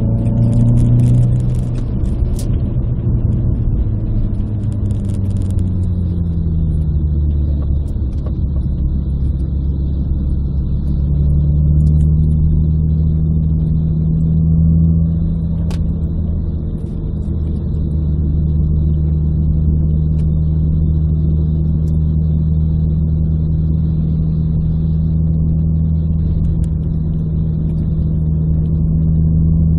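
Renault Clio RS 172's four-cylinder engine heard from inside the cabin. Its note drops over the first several seconds as the car slows, then holds steady at part throttle, over a road rumble.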